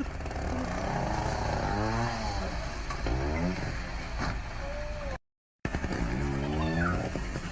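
A vehicle engine accelerating repeatedly, its pitch rising and dropping back several times as it revs and shifts, over a steady low rumble. The sound cuts out completely for a moment about five seconds in.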